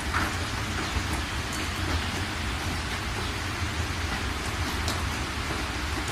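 Heavy rain pelting the windshield and roof of a moving car, heard from inside the cabin as a dense, steady hiss with scattered drop ticks, over a steady low rumble from the car on the road.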